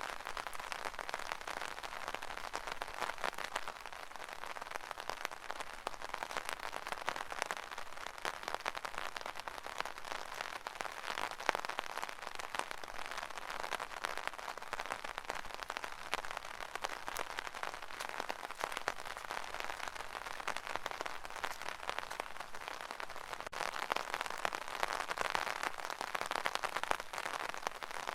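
Rain pattering on an umbrella: a dense, steady spatter of many small drops, a little heavier near the end.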